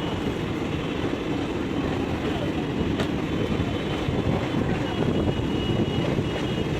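A train passing, a steady low rumble with a sharp click about three seconds in.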